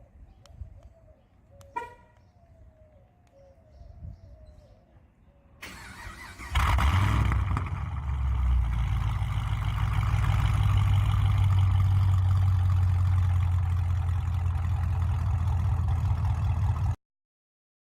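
Chevrolet Camaro SS V8 cranks and catches at about six and a half seconds, then runs steadily with a deep rumble until the sound cuts off suddenly near the end.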